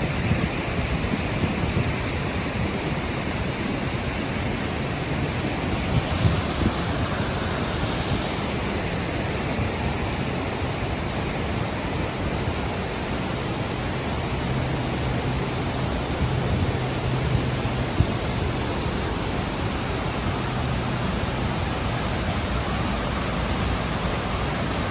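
Fukiware Falls rushing loudly and steadily, in heavy flow after rain.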